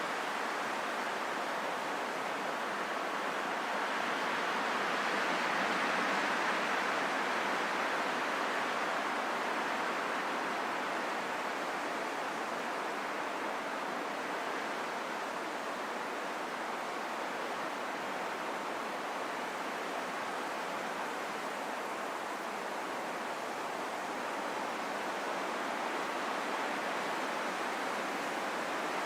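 Steady wind noise, an even rushing hiss that swells gently a few seconds in and then settles back to a constant level.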